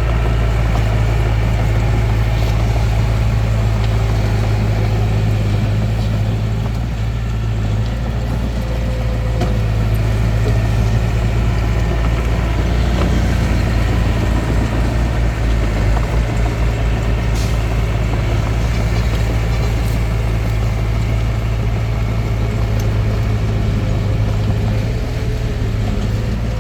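Diesel engine of a Hitachi DX45M bulldozer running steadily, with a deep continuous drone.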